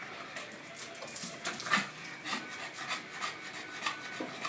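Dog scrambling after a laser pointer dot: irregular scrapes and knocks as it moves, with some panting.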